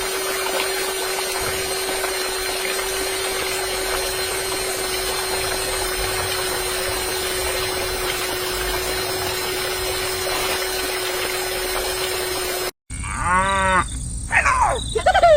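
A steady mechanical whir with a constant hum runs unchanged, then cuts off abruptly about two seconds before the end. A cow moos two or three times after it.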